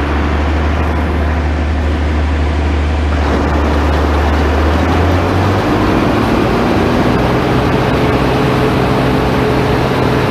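Combine harvester running steadily while harvesting barley. About halfway through, its deep engine drone gives way to a higher, steady engine note.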